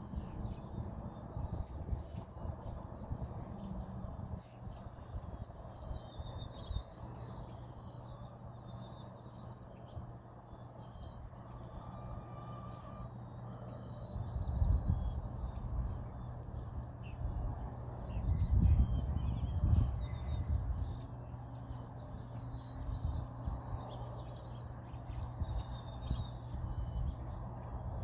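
Small birds chirping off and on over a steady low hum. Low rumbling gusts come in about halfway through and again a few seconds later.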